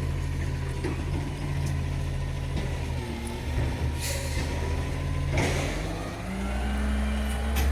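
Garbage truck engine running steadily, with two short hisses in the middle. Near the end the engine note rises and gets louder.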